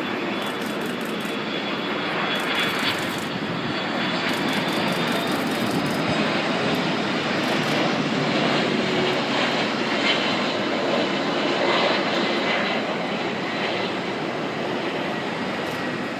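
Jet engines of a landing Airbus A330-200 airliner: a steady jet roar with a faint high whine, growing a little louder about halfway through and easing off again near the end.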